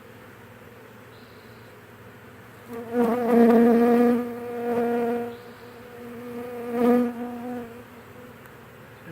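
Honeybee buzzing close to the microphone: a loud, slightly wavering wing buzz that starts about three seconds in, swells twice and fades away near the end, over the faint hum of the swarm.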